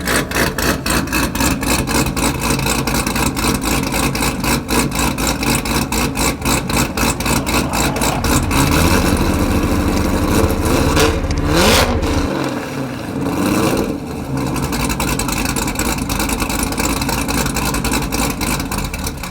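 Corvette V8 engine running with an even, lumpy pulse of about four to five beats a second. Its pitch rises as it revs about halfway through, then it drops back to the pulsing idle.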